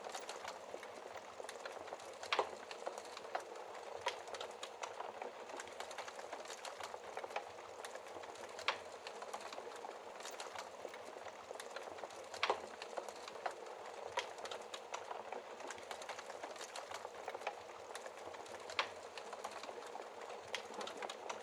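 Wood fire burning in a fireplace: a steady crackling hiss with scattered small pops and a few sharper, louder snaps.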